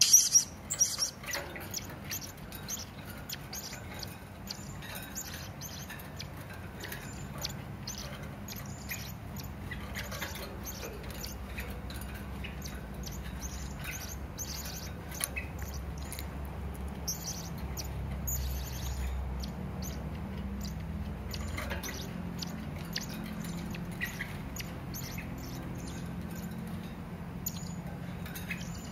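Hanging parrot (serindit) giving a rapid series of short, sharp, high-pitched chirping calls, loudest in the first second. A low steady hum runs underneath.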